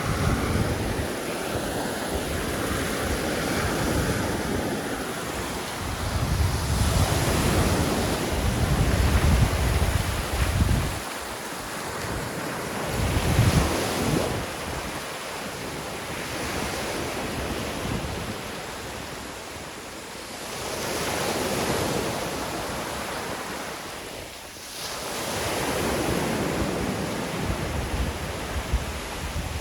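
Sea waves washing onto a beach, the surf swelling and falling back every several seconds, with wind gusting on the microphone.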